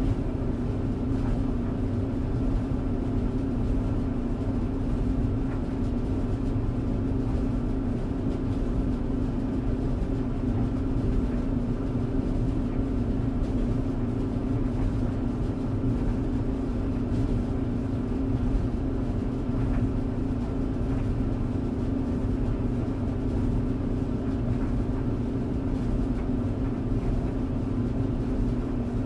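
Tumble dryer running steadily: a constant motor hum over a low rumble, unchanging throughout.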